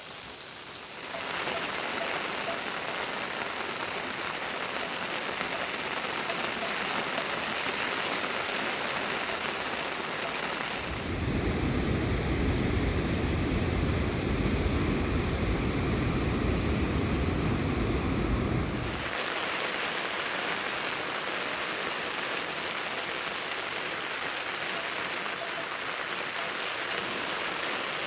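Steady rain falling as an even hiss. It gets louder about a second in, and for about eight seconds in the middle a deeper, heavier rush joins it before it drops back to the lighter hiss.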